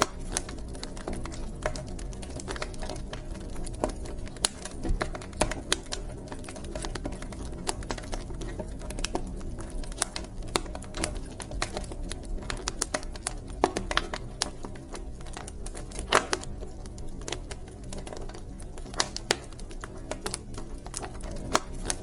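Wood fire crackling in a fireplace: a steady low rumble of flames with many irregular sharp pops and snaps, one louder snap about two-thirds of the way through.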